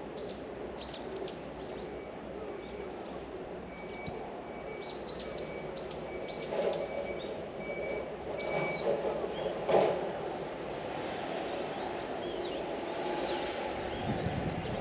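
Small birds chirping in short, quick calls, with a faint repeated high note for several seconds in the first half and a sharp sound near the middle. A low, steady background rumble swells near the end.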